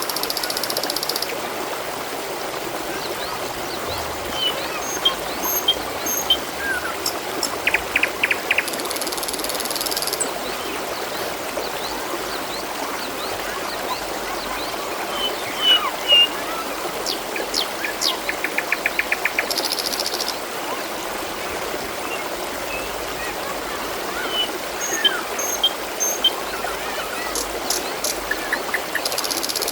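Water trickling and running steadily, like a small stream. Scattered short high chirps sound over it, with a brief very high buzz about every ten seconds and two quick rattling trills.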